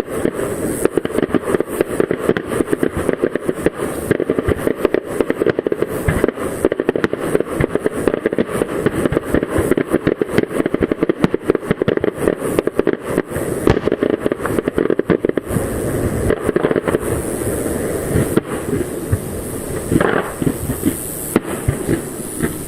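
Aerial fireworks display: a dense, continuous barrage of rapid bursts and crackling reports, with a couple of stronger bursts near the end.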